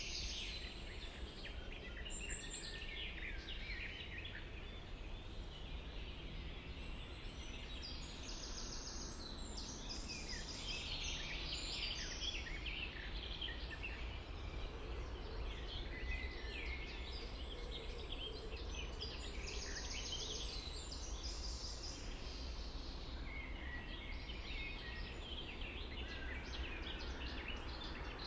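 Several birds singing, overlapping chirps and trills throughout, over a steady low background rumble.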